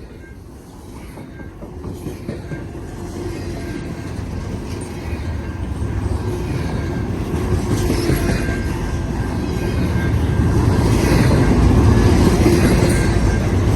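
CN freight train led by GE GEVO diesel locomotives approaching, the engine rumble and rail noise growing steadily louder as it nears.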